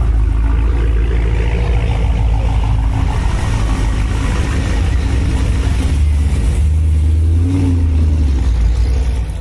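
A car engine running loudly with a deep, steady low rumble.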